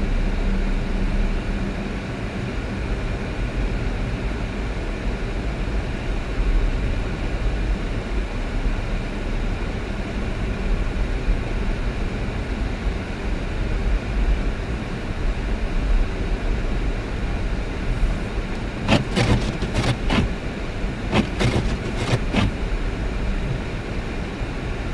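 Car driving on a road: steady engine and tyre rumble with road hiss. Near the end comes a short run of sharp clicks or knocks.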